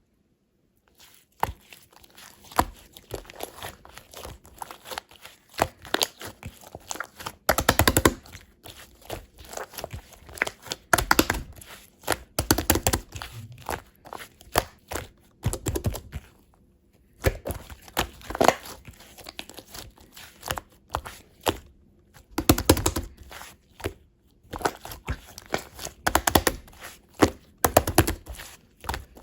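Slime being squeezed and squished by hand, giving clusters of quick sticky clicks and pops in short bouts with brief pauses between them.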